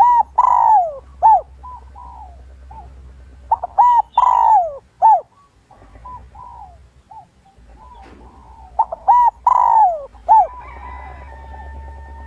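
Spotted dove cooing: three loud phrases about four and a half seconds apart, each a few short notes around one long note that falls in pitch, with softer short coos between. This is a male's territorial coo, used as a decoy call to draw wild males in to fight.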